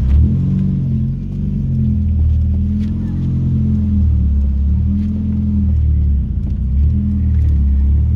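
Volkswagen Gol G2's AP four-cylinder engine through a straight-through exhaust with no muffler, running at low revs under light, changing throttle: a deep rumble whose pitch wavers up and down a little.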